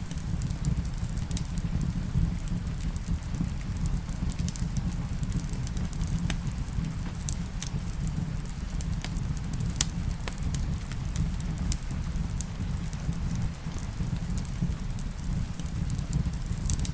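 Wood fire in a fireplace crackling, with scattered sharp pops over a steady low rumble, blended with rain on a cabin roof.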